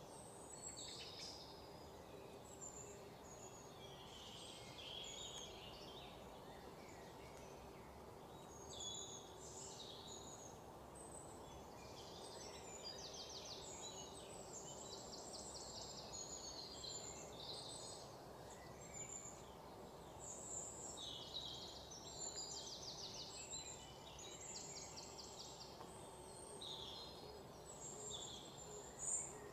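Faint bird chirps and fast trills, scattered irregularly throughout, over steady background noise with a low hum.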